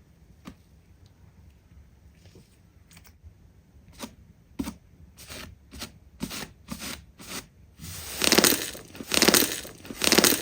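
Slime being pressed and squeezed by hand, giving short crackling pops. The pops come a few to a second from about four seconds in, then turn into louder, longer crackling squelches over the last two seconds.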